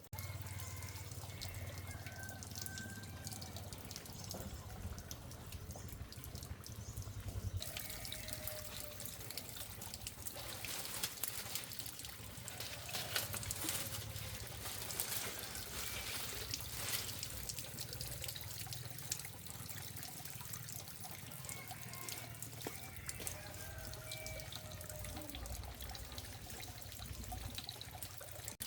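Water running and trickling steadily, growing busier and more splashy from about eight seconds in.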